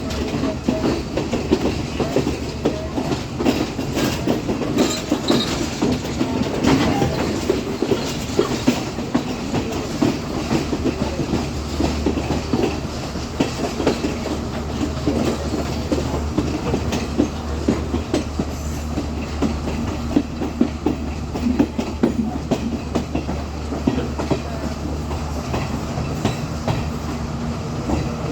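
Sri Lanka Railways Class S12 diesel multiple unit running along the line: a steady low engine drone under continual clicking and rattling of the wheels over the rails.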